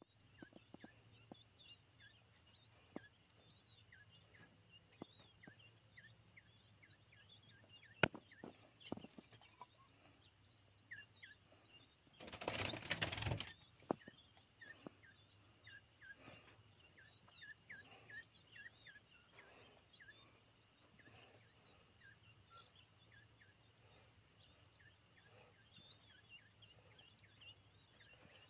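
Quail calling in many short, high chirps over a steady pulsing insect trill. A brief burst of rustling noise comes about twelve seconds in, and there are a few scattered clicks.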